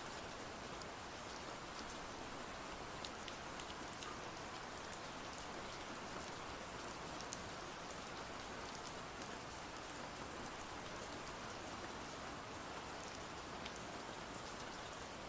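Steady rain falling, an even hiss with scattered small sharp ticks of drops throughout.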